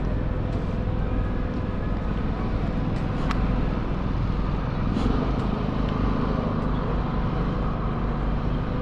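Downtown city street traffic: a steady low rumble of vehicles with a faint engine hum, and a few sharp ticks, the loudest about three seconds in and again about five seconds in.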